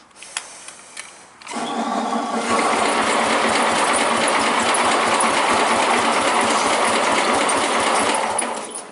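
Suburban 10's engine cranking on its starter for about seven seconds without catching, after a few light clicks. The engine is flooded in the cold, and the owner blames a fouled spark plug.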